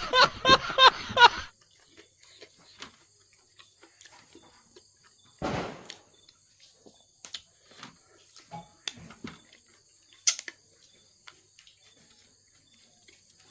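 Close-miked eating sounds: scattered soft chewing clicks and mouth smacks, with a louder noisy burst about five and a half seconds in and a sharp click near ten seconds, over a steady faint high-pitched whine. A short run of voice opens it.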